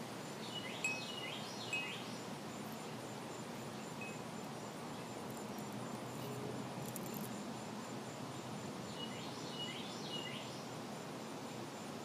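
Birds chirping: a quick group of three or four short chirps about a second in and another group around nine to ten seconds in, over a steady outdoor background noise.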